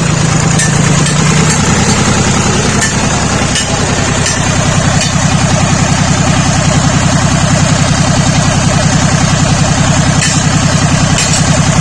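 Lister Petter LPW3 three-cylinder marine diesel engine running steadily at idle after an electric start, on a test run after servicing. The engine runs without any problem, with a few faint ticks over the steady pulsing and a slight change in its tone about a second and a half in.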